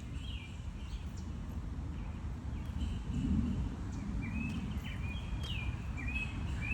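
Birds chirping: short, high calls that glide in pitch, repeated in quick clusters, most of them in the second half, over a steady low outdoor rumble.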